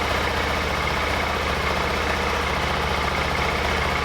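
BMW G650GS motorcycle's single-cylinder engine idling steadily just after starting on a newly fitted battery.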